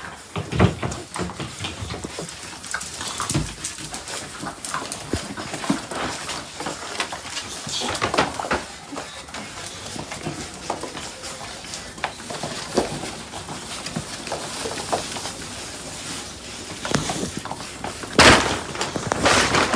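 A dog making short vocal sounds, among scattered short knocks and rustles, with a loud noisy burst near the end.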